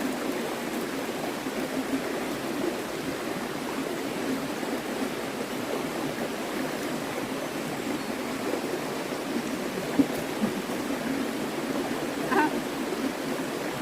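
A stream running over rocks: a steady, even rush of water. There is a brief knock about ten seconds in and a short high note near the end.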